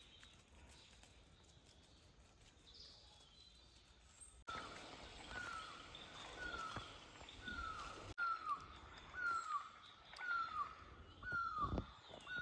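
A bird calling over and over, each note a short downward slide, repeated about one and a half times a second, starting a little over a third of the way in; before that only a faint outdoor background.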